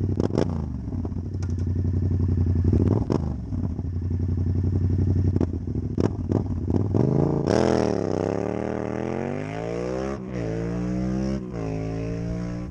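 2020 Yamaha MT-07's parallel-twin engine running through a full aftermarket exhaust with no baffle, heard while riding. The engine note holds steady with several short sharp cracks at first. Then, about seven seconds in, it accelerates, the pitch climbing and dropping back three times as the gears are shifted up.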